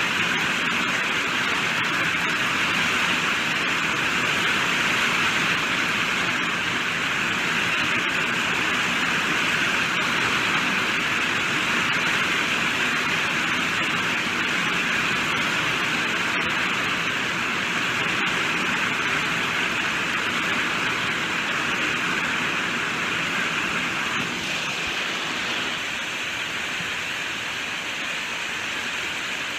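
Steady heavy rainfall, an even hiss of falling drops, easing a little about 24 seconds in.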